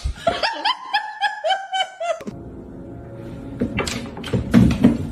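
High-pitched laughter in a quick run of about eight short notes over two seconds. It is followed by noisier sound with a few sharp knocks near the end.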